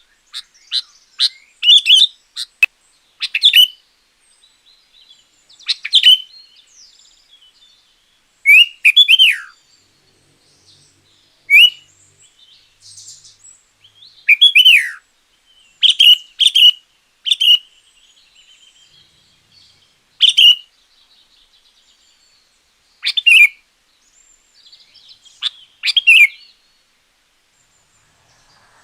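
Sooty-headed bulbul (kutilang) singing loudly in short, clear chirping phrases, a quick run of notes at first and then a phrase every second or few, some sliding quickly downward.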